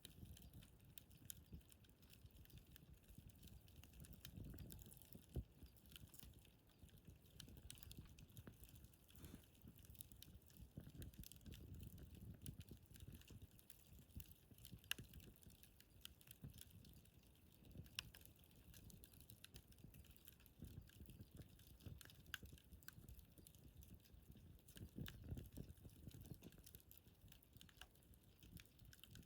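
Wood campfire burning quietly, with scattered sharp crackles and pops over a soft low rumble.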